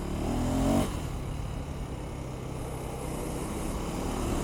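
KTM 390 Adventure's single-cylinder engine running under way in street mode. The revs rise for about the first second, then the note drops back and holds steady, slowly building again toward the end.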